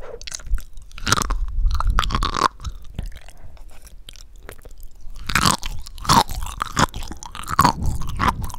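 Close-miked chewing of a mouthful of sea grapes (green caviar seaweed), a run of many short sharp clicks as the beads are bitten, busiest in two stretches with a lull in the middle.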